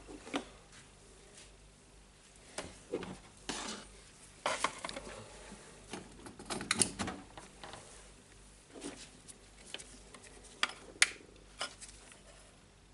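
Tools and hard plastic parts handled on a workbench: scattered clicks, knocks and light clatter, a few sharper taps about two thirds of the way in and near the end.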